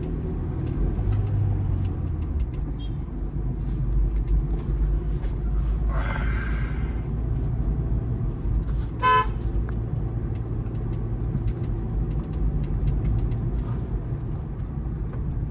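Steady engine and road rumble heard from inside a moving car. About six seconds in a horn sounds for around a second, its pitch falling slightly, and about nine seconds in a car horn gives one short, loud toot.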